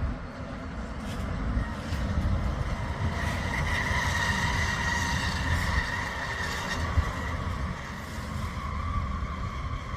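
Railway locomotive or train running, a steady low rumble with a high whine on top that grows louder in the middle and then eases off.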